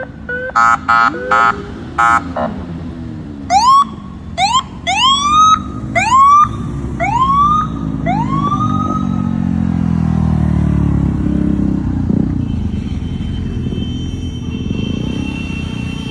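Emergency-vehicle siren: a few short horn-like blasts, then a run of about six quick rising whoops, over the steady rumble of a motorcycle engine running.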